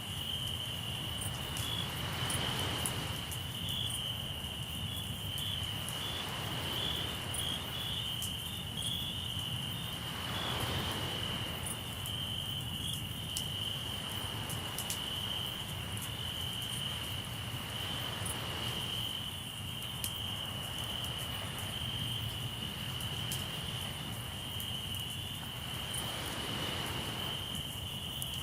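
Crickets trilling steadily on one high note, with sea waves washing in several times and small crackles from a campfire.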